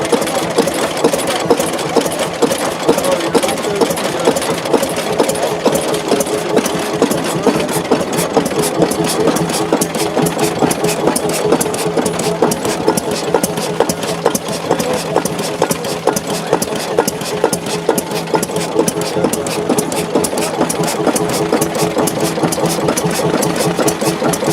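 Diesel engine running steadily, with a fast, even clatter that does not change.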